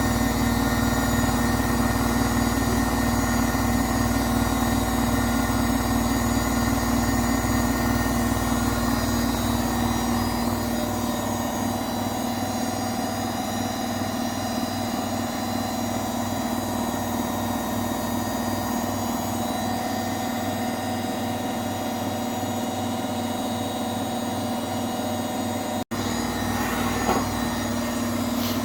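Beko washing machine on its final spin, the motor and drum running with a steady, even whine. The deep low hum thins out about a third of the way through.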